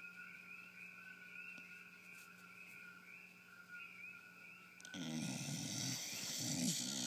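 Pit bull snoring in its sleep: about five seconds in comes one long, loud, rough snore. Before it there is only a faint steady whine.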